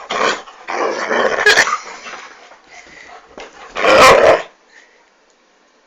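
A dog barking and growling in three loud bursts, the last and loudest about four seconds in.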